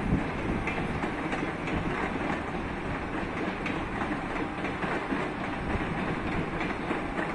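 Passenger coaches of a departing train rolling along the track, a steady rumble with the wheels clicking over rail joints.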